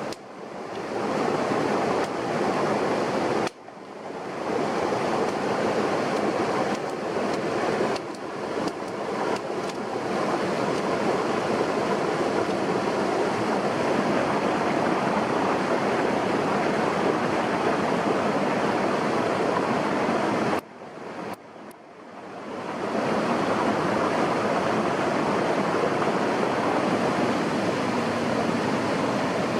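Steady rushing noise, broken twice by brief sudden drop-outs, about three and a half seconds in and again past the twenty-second mark.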